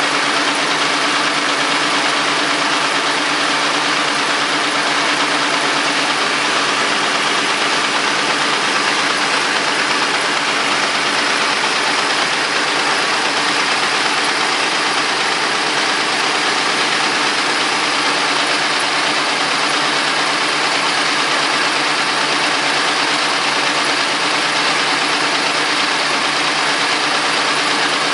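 Caterpillar D13000 six-cylinder diesel engine running at a steady speed.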